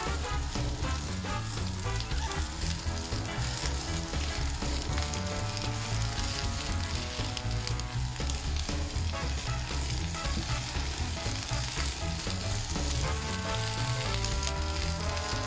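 Asparagus sizzling in olive oil in a hot skillet, with sliced shallots and green onions added partway through and stirred with a spatula. Background music plays underneath.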